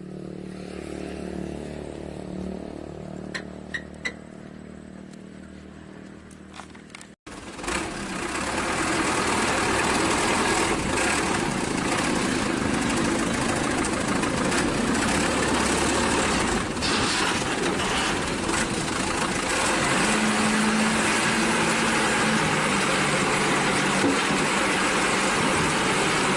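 Diesel dump truck engines running at a soil-loading site. A quieter engine hum with a few light clicks breaks off suddenly about seven seconds in, and a louder, dense engine noise follows and holds steady.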